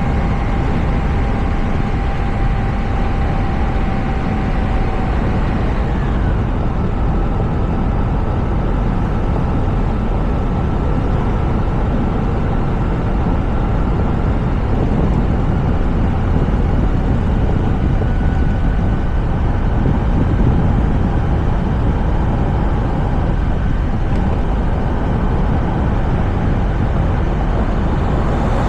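Steady road and wind noise from a moving Toyota RAV4, heard from a camera on its roof: a dense, even low rumble of tyres and airflow. A faint thin whine runs over it and drops in pitch about six seconds in.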